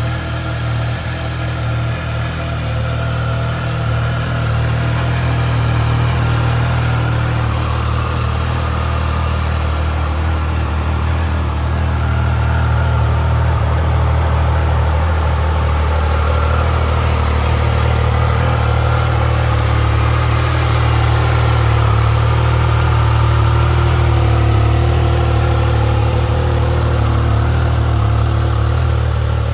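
2021 Triumph Speed Triple RS's 1160 cc inline three-cylinder engine idling steadily.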